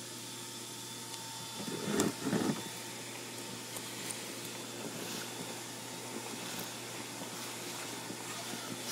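Vacuum running steadily with a constant hum and hiss while sucking up bees. A brief louder noise rises out of it about two seconds in.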